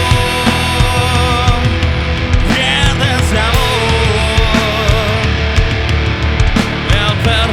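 Rock band playing loud with full drums and a dense low end, under a lead melody of long held notes with wavering vibrato.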